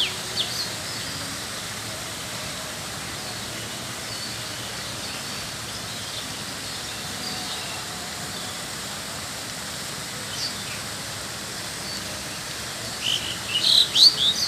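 Birds chirping over steady outdoor background noise, with a burst of louder, quick chirps near the end.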